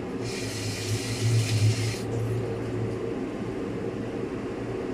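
Steady low electrical hum, with a burst of hiss during the first two seconds.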